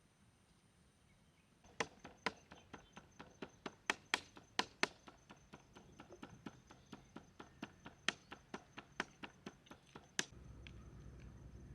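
Chopping: a run of sharp, quick knocks, about three or four a second, lasting some eight seconds before stopping. A steady low rumble starts near the end.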